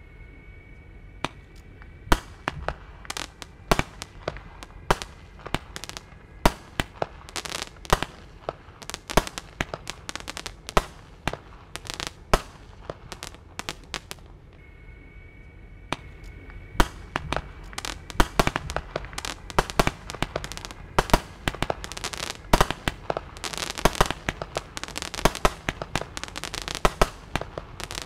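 A 20 mm fireworks battery compound firing shot after shot: sharp bangs, several a second, easing off briefly around the middle and then coming thicker and faster near the end.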